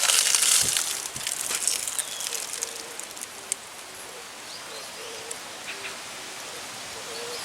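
Outdoor ambience: a steady hiss, with a crackling rustle at the start that fades over the first couple of seconds, and a few faint short chirps.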